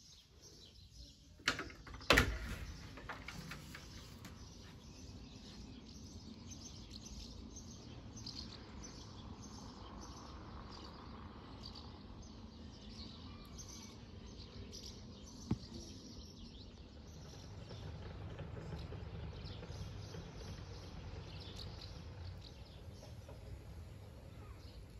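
Birds chirping over a steady low background noise, with a sharp knock about two seconds in and a smaller one later.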